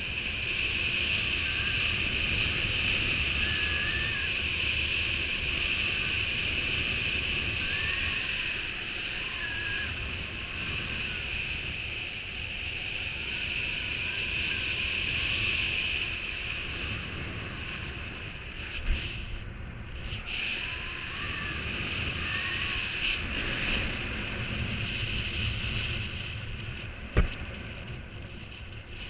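Wind rushing over the microphone in flight under a paraglider mini wing, with a steady high hiss. There is a single knock about two-thirds of the way through and a sharp click near the end.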